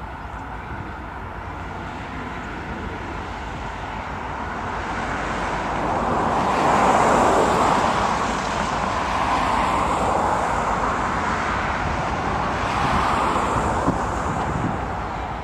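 Diesel-hauled freight train approaching and passing, its noise swelling to a peak about seven seconds in and staying loud to near the end.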